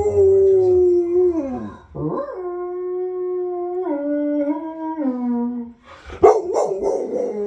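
Dog howling: one long howl that falls away at its end, then a second long howl that drops in pitch in a few steps, followed by a short yelp near the end.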